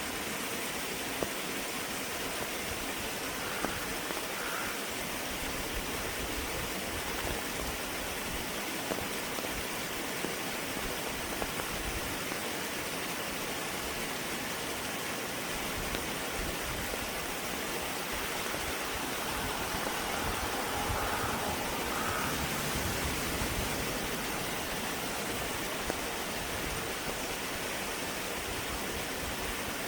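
A small creek babbling steadily over stones. Faint bird chirps come through twice, a few seconds in and again about two-thirds of the way through.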